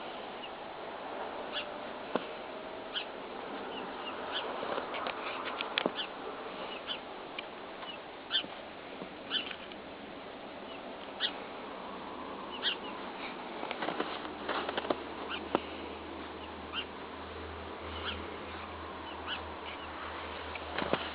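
Cocker Spaniel puppies giving short, high squeaks and yips, scattered about once or twice a second, with occasional sharper clicks and knocks among them.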